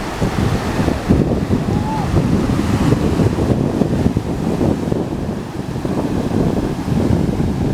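Wind buffeting the microphone in an uneven, low rumble, over the steady wash of ocean surf.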